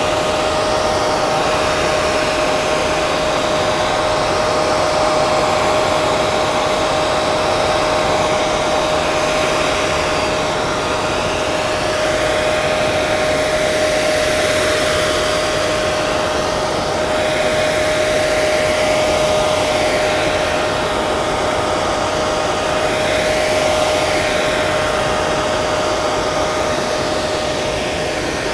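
Hair dryer running continuously: a steady rushing blow of air with a constant motor whine, the airflow shifting slightly in tone now and then.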